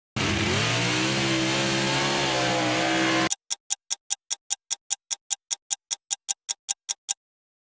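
A held, slightly wavering musical tone for about three seconds cuts off abruptly into an even run of short, sharp ticks, about five a second, lasting nearly four seconds, then stops dead.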